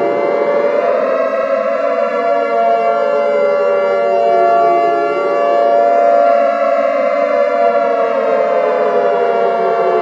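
Civil defense (nuclear alert) siren wailing: several overlapping tones slide slowly up and down, dipping about five seconds in and climbing again, over a steady held tone.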